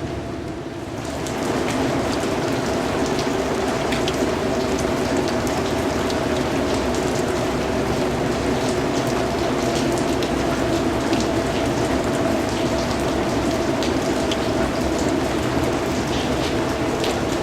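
Steady rain falling on a surface, many separate drops ticking through a continuous patter. A steady low hum runs underneath. The rain dips slightly at the start and builds back within about a second and a half.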